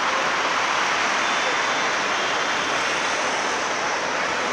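Jet airliner engines running, a loud, steady rushing noise that holds without rising or falling.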